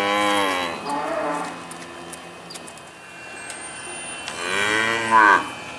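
A calf mooing twice: one call at the start and a second about four and a half seconds in, loudest near its end. It has just drained its milk and is calling for more.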